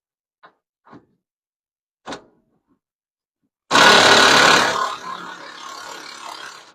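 A few light clicks, then a power impact wrench starts suddenly and runs loud against a rusty, seized bed-mounting bolt. It is loudest for about a second, then runs at a lower level before cutting off.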